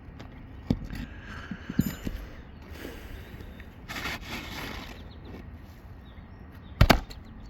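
Footsteps and scuffing on an asphalt shingle roof: scattered light knocks, two short rustling scrapes in the middle, and a loud double knock near the end.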